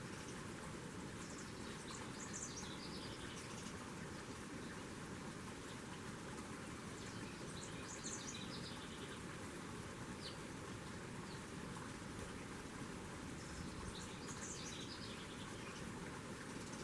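A songbird repeats a short song phrase of high notes stepping downward, three times about six seconds apart, over steady outdoor hiss.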